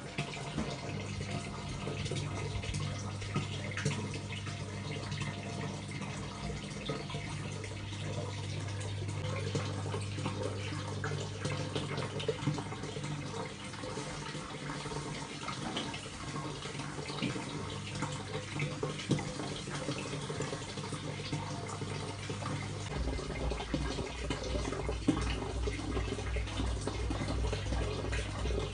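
Water running steadily, with scattered small clicks, over low steady tones that shift a few times and start to pulse near the end.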